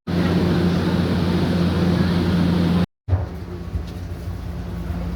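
Steady hum and rumble of a passenger train, with a constant low drone under a broad noise. About three seconds in it cuts briefly to silence and comes back as a quieter clip of the same hum.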